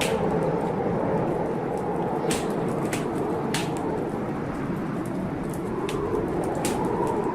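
Heavy blizzard wind rushing steadily, its whistle slowly rising and falling in pitch, with sharp crackles from a wood fire every second or so.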